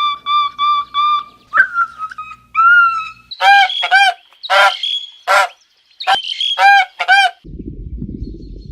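Goose-like honking of a large bird: first a quick run of short, even calls, then louder, harsher honks in clusters. About three-quarters of the way through the calls stop abruptly and a low, steady rushing noise takes over.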